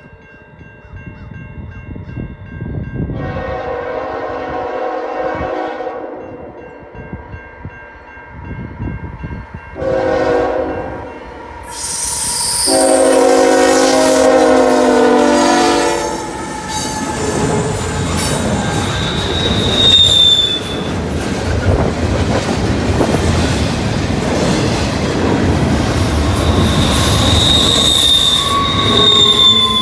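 Freight train horn, a five-chime Nathan K5HL on a CN GE Evolution-series (GEVO) locomotive, blowing three blasts, the last the longest and loudest. The locomotives then pass close by, and double-stack intermodal cars roll past with a steady rumble and wheel squeal.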